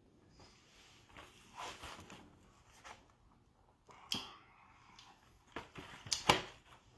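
Mouth sounds of someone tasting hot infused honey: quiet smacking with a few sharp clicks, the loudest about four and six seconds in.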